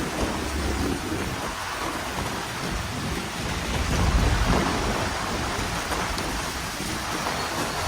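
Heavy rain falling steadily, with a low rumble of thunder swelling about four seconds in.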